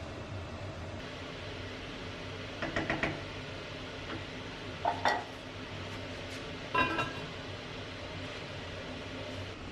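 Dishes and cutlery clinking in three short bouts, with a steady low hum underneath.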